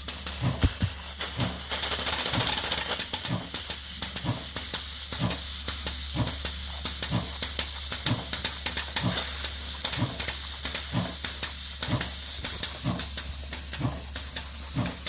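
Steady steam hiss with the live-steam Shay's steam-driven water pump puffing in an even rhythm, about one and a half strokes a second, as it is primed and starts feeding water into the boiler.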